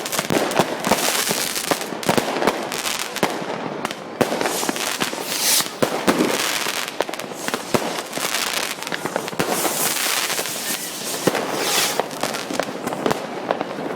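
New Year's Eve fireworks and firecrackers going off continuously: a dense mix of sharp cracks and bangs with hissing, crackling bursts in between.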